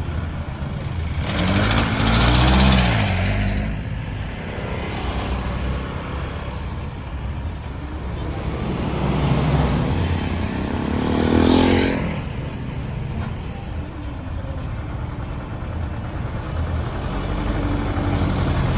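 Road traffic: a steady hum of engines and tyres, with two louder vehicles passing close by, one about two seconds in and one past the middle, their engine notes rising and falling as they go by.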